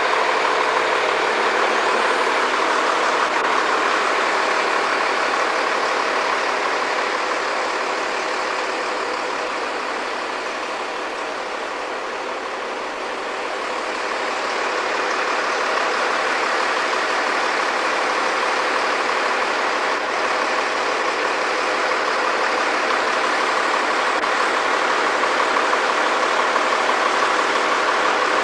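Heavy engine running steadily, easing off a little about ten seconds in and picking back up a few seconds later.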